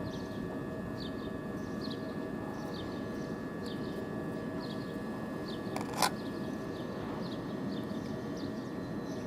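Railway platform ambience: a steady electrical hum with a few even tones, typical of an electric train standing with its equipment running, while a small bird chirps over and over. A single sharp click about six seconds in.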